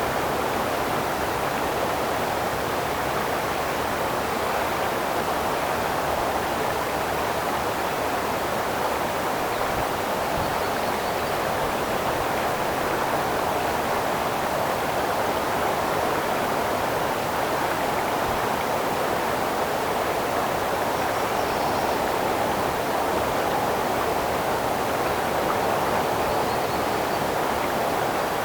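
Creek flowing: a steady, even rush of running water.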